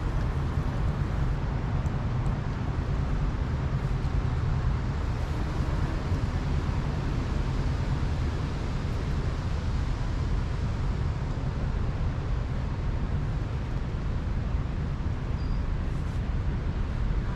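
Steady outdoor background noise: a continuous low rumble with a hiss above it and no distinct events.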